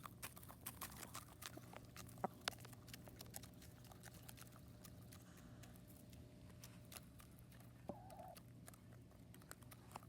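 Quiet chickens feeding: faint scattered ticks and taps, thickest in the first few seconds, and one short chicken cluck about eight seconds in.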